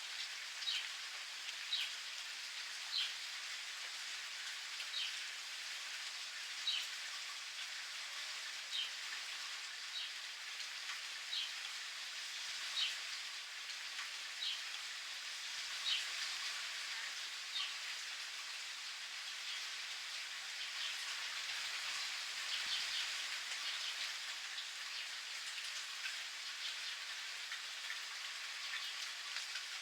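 Steady rain falling, with a bird repeating a short high chirp about once every second or two through the first half or more.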